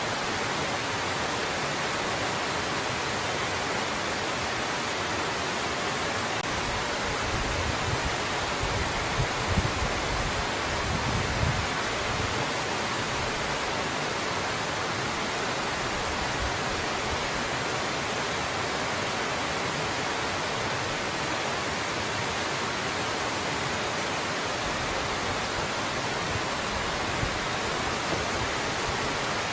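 Waterfall pouring steadily, an even rushing hiss, with a few brief low rumbles between about seven and twelve seconds in.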